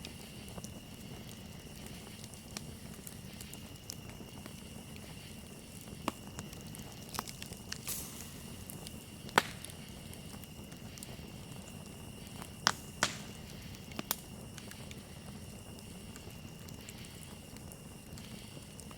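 Wood campfire crackling, with scattered sharp pops that come in a cluster between about six and fourteen seconds in, the loudest about nine seconds in. Under it runs a steady high chirring of crickets.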